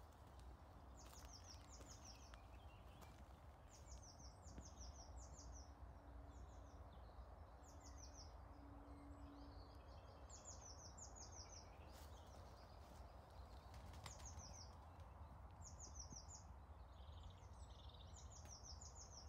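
Faint birdsong: a small bird repeating short bursts of three to five quick, high, falling notes every second or two, over a low steady rumble.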